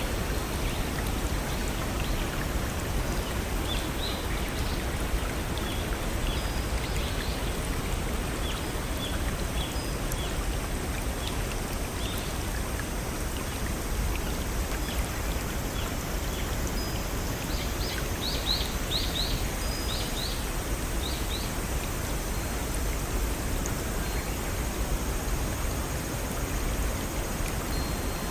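Small waterfall or brook rushing steadily over rocks, with scattered short bird chirps above it and a quick run of brighter chirps about two-thirds of the way through.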